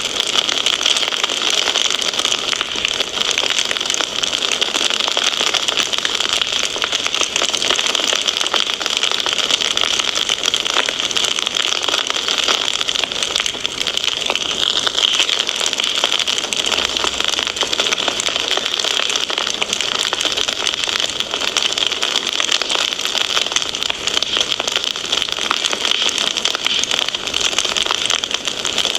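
Wood fire crackling steadily: a dense stream of small pops and snaps over a constant hiss.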